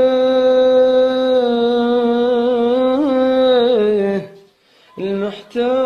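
A man singing an Arabic mawwal unaccompanied, holding one long steady note on the word 'ana' for about four seconds. The note wavers into small ornaments before it breaks off, and after a brief pause he resumes with quick melismatic turns.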